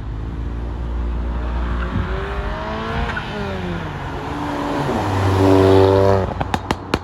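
Car engine revving, its pitch rising and falling, held loud and steady near the end before dropping off, followed by a few sharp cracks.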